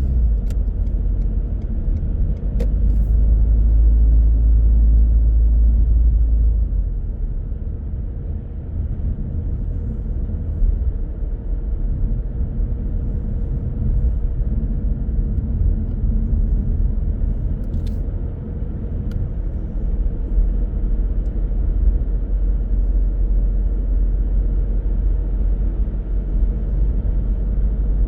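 A car being driven, heard as a steady low rumble of road and engine noise, with a few faint clicks.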